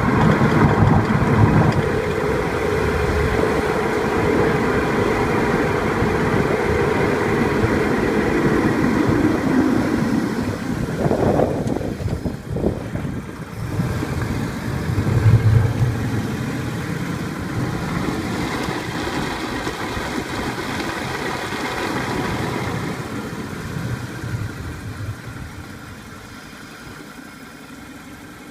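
Mazda Axela car on the move: steady engine and road noise with a few sharper knocks about halfway through, fading down over the last few seconds.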